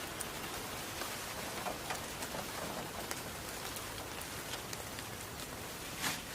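Steady rain falling, an even hiss with scattered small ticks of drops, and a brief louder swell near the end.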